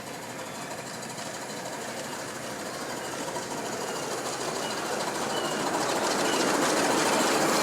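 A miniature railway train approaching, its locomotive running with a fast, even mechanical beat and the wheels clattering on the rails, growing steadily louder as it comes closer.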